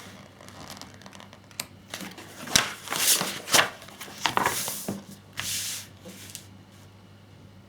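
Handling noises: crinkling and rustling of paper or plastic packaging with a few sharp clicks, busiest in the middle and quiet near the end.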